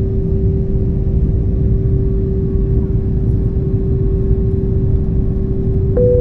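COMAC C919 airliner noise: a steady low rumble of engines and airflow with a constant hum. Near the end a click sounds and a second, higher tone starts.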